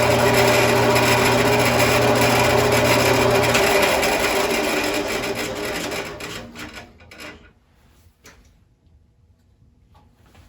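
Craftsman 12-inch bandsaw running on its new urethane tires during a blade-tracking test, switched off about four seconds in and coasting down to a stop over the next few seconds. A few faint clicks follow.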